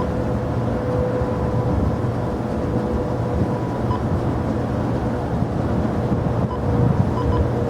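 Jet airliner engines running, a continuous low rumble with a steady whine.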